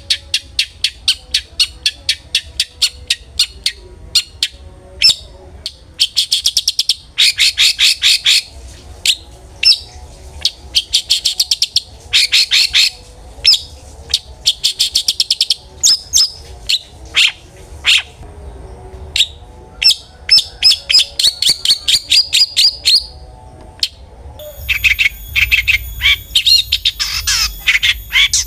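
Long-tailed shrike (cendet) singing: a run of sharp, evenly spaced ticking notes, then bursts of fast, high trilled chatter with short gaps between them. A denser, harsher chatter begins near the end.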